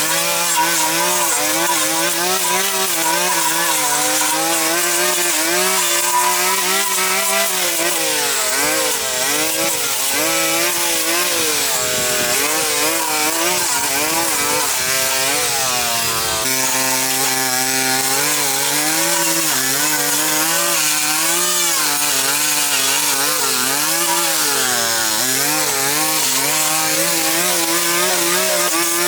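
Small engine of a handheld power tool running continuously, its speed wavering up and down throughout, with a sudden drop in pitch a little past halfway.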